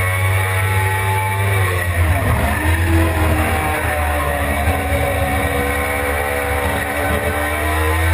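Suzuki GSX-R600's inline-four engine heard onboard at track speed: the revs fall for about two seconds as the bike slows into a corner, pick up with a short jump around three seconds in, sag slowly through the corner, then rise again near the end as it drives out.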